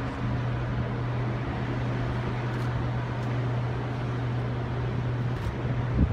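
An engine running steadily: a low, even hum over a hiss, which fades out shortly before the end.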